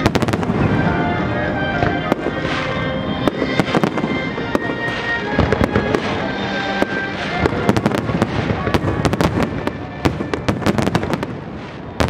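Aerial fireworks display: a fast run of sharp bangs and crackling shell bursts, thickest in the second half, with music playing alongside.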